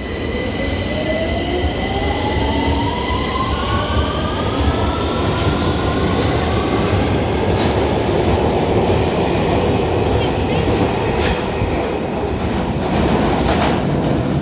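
London Underground Victoria line 2009 Stock train pulling out, its traction motors whining and rising steadily in pitch over several seconds as it accelerates, over a heavy rumble of wheels on rail.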